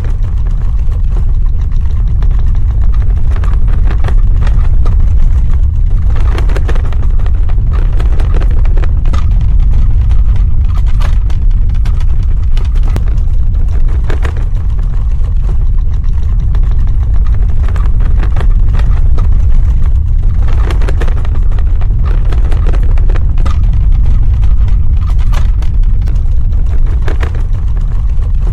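Earthquake sound effect: a loud, continuous deep rumble, with scattered short crackles over it.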